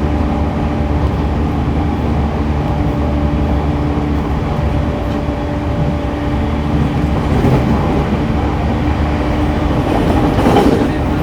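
Running sound heard inside a JR East E231-1000 series (refurbished) commuter train car: a steady rumble of wheels on rail with a few faint steady tones, and a brief louder swell about ten and a half seconds in.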